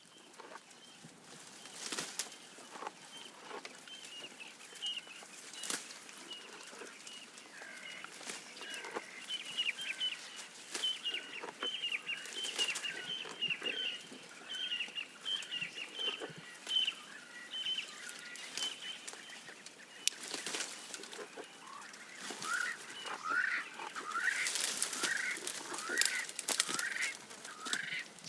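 Birds calling: a fast run of short, high chirps through the middle, then a series of repeated swooping calls in the last quarter. Scattered crackles and snaps throughout fit a giraffe stripping and chewing leaves.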